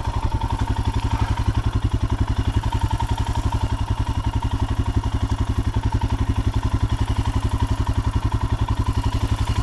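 Royal Enfield 410 cc single-cylinder motorcycle engine idling, a steady, even low thump with no revving.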